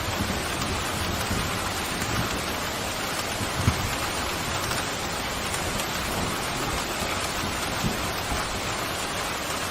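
Steady heavy rain pouring, with a low rumble of distant thunder underneath. Two short low thuds stand out, a little over a third of the way in and again near the end.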